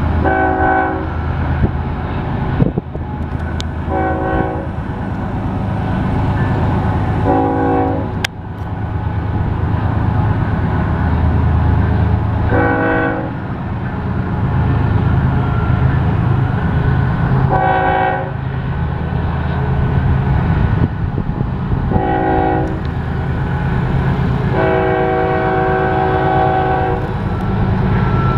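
Diesel locomotives of a BNSF intermodal freight train running with a steady low drone, while a locomotive horn sounds seven blasts a few seconds apart, the last one longer, about two and a half seconds, near the end.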